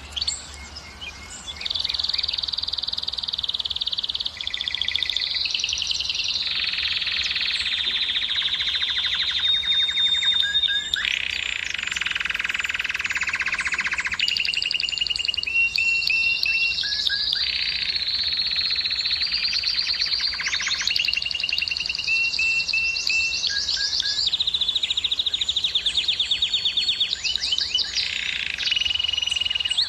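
Male domestic canary singing a long, unbroken song of rapid trills. Each phrase is a fast run of one repeated note and gives way to the next every second or two, with some lower, rolling trills among the higher ones.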